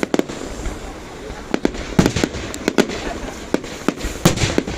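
Fireworks bursting overhead: irregular sharp bangs and crackles, several in quick succession, with the loudest about two seconds in and again near the end.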